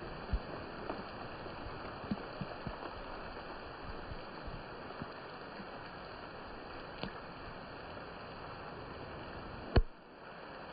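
Light rain falling steadily, with scattered heavier drops ticking close by. One sharp knock sounds near the end, after which the rain is briefly quieter.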